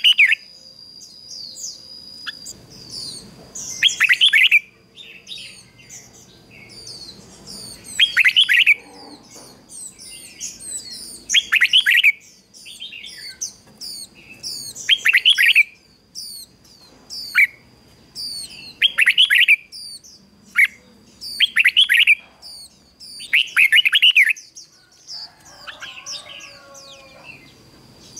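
Red-whiskered bulbul singing loud, repeated song phrases about every four seconds, with fainter high chirps between them.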